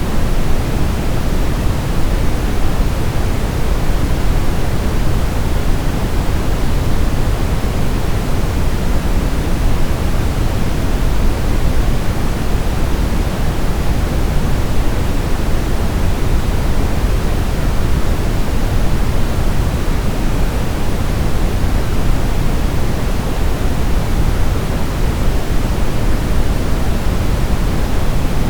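Steady brown noise: an even, unbroken rushing hiss weighted toward the low end, with no changes.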